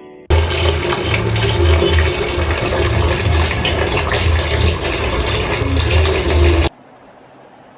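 Loud rush of running water, starting abruptly and cutting off suddenly about a second before the end.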